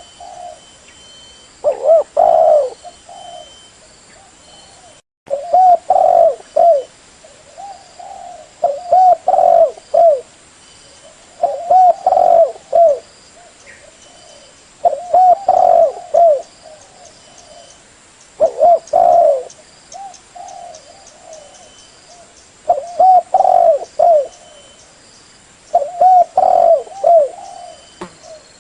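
Spotted dove (tekukur) cooing: a loud, repeated multi-note coo phrase, about eight phrases, one every three seconds or so, the kind of call used to lure other spotted doves.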